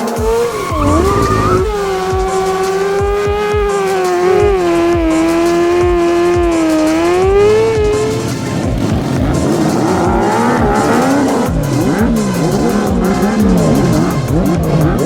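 An engine held at high revs while drifting, its pitch wavering, with tyre squeal; from about eight seconds in the revs rise and fall quickly again and again. Music with a steady beat runs underneath.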